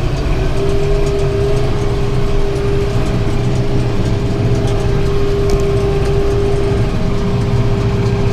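Tractor engine running steadily while driving a round baler through its PTO. A steady whine rides over the low engine drone; it comes in about half a second in and holds.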